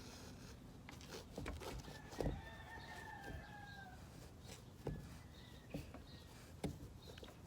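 Scattered knocks and taps from handling, the loudest about two seconds in, with a thin drawn-out call that falls slightly in pitch and lasts about two seconds.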